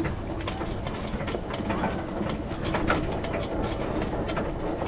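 Pedal go-kart rolling along: a steady rumble from the wheels with frequent irregular clicks and rattles.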